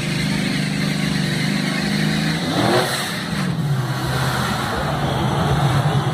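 Ford F-150 Lightning pickups' forced-induction V8 engines running and revving hard. About halfway through, a fast rising sweep in pitch, and the engine note dips and then climbs again.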